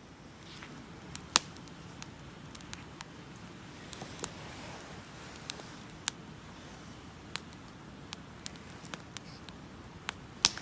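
Dry firewood snapping and crackling: sharp, irregular cracks, one or two every second, over a faint steady hiss, the loudest about a second and a half and four seconds in.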